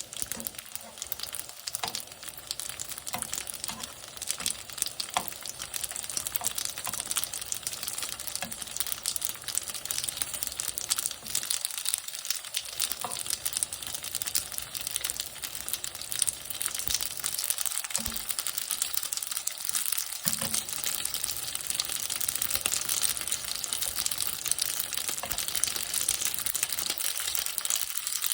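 Dumplings (mandu) frying in oil in a pan: a steady, dense crackling sizzle that grows a little louder toward the end.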